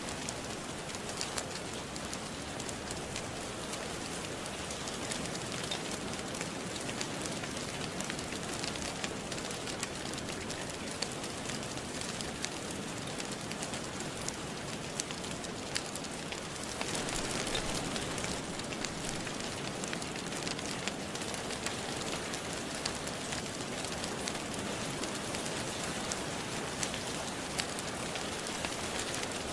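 Steady rain hissing, mixed with a fire crackling in frequent sharp pops. The rain swells a little louder just past halfway.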